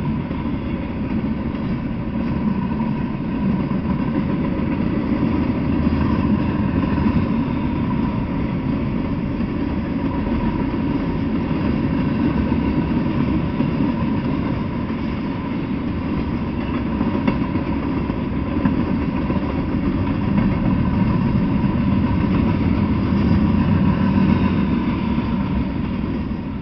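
Freight train cars rolling past at a steady speed: a continuous rumble of steel wheels on rail, with a thin steady tone running through it.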